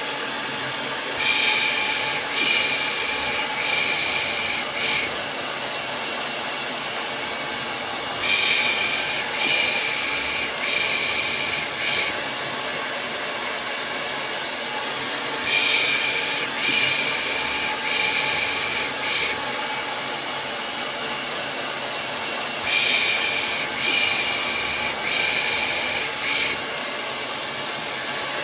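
Hair dryer running with a steady rushing noise, overlaid with rhythmic 'pış pış' shushing to lull a baby. The shushes come as sets of four hissing 'pışşş' sounds about a second apart, and the sets repeat about every seven seconds.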